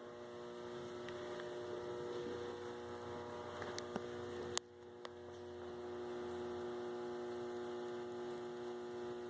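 Steady electrical hum with several even overtones, broken by a sharp click about four and a half seconds in, where the level dips briefly before settling again.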